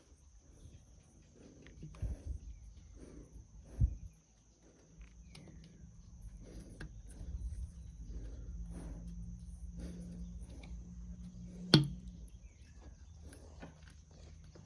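Hand-work sounds on engine parts: a few knocks, then a run of soft repeated strokes and one sharp metallic click near the end. A steady high insect trill runs behind.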